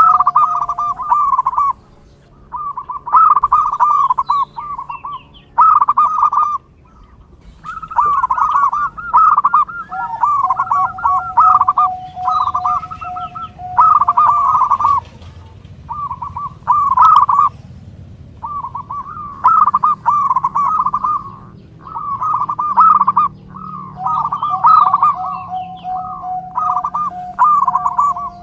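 Zebra doves (perkutut) cooing: a run of rapid, warbling coo phrases, each about one to two seconds long, repeating with short pauses between them.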